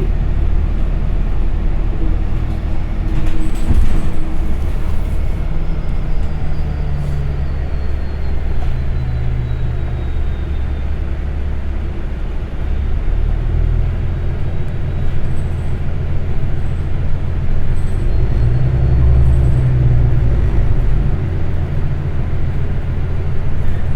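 City transit bus under way, heard from inside: a steady low engine and road rumble whose pitch rises and falls as the bus changes speed, with a faint high whine that slowly falls in pitch.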